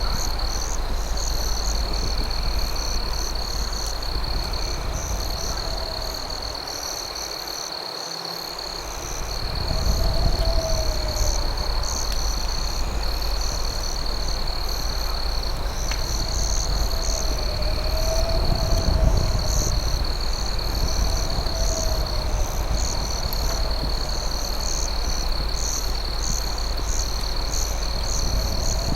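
Night insect chorus: crickets trilling in a steady high tone, with pulsing chirps above it. A soft low call repeats every two to three seconds over a low rumbling background.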